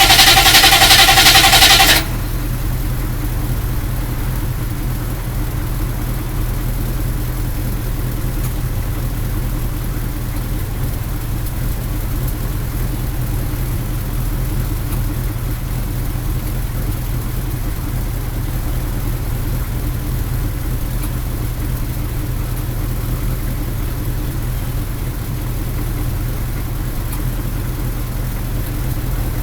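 A loud whirring with a steady whine cuts off suddenly about two seconds in, leaving a truck engine idling steadily with a low, even rumble.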